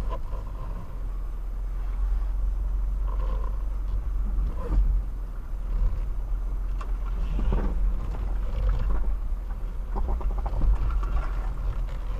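Mitsubishi Pajero Sport driving slowly off-road, heard from inside the cabin: a steady low engine and drivetrain rumble, with irregular knocks and jolts from the body and suspension over rough ground.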